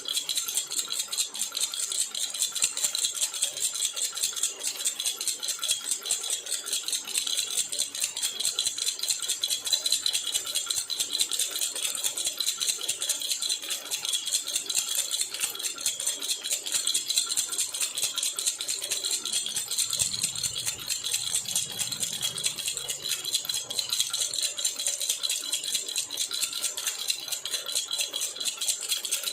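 Jhunjhuna baby rattle shaken quickly and evenly, a continuous dense rattle without pause.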